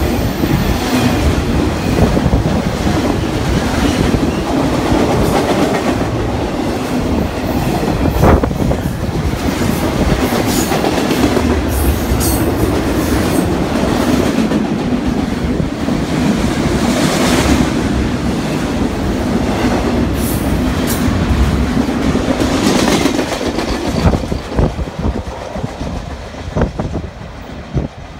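Double-stack container cars of a BNSF intermodal freight train rolling past close by: a steady, loud rumble with repeated clickety-clack of steel wheels. Near the end it thins and fades as the last cars go by.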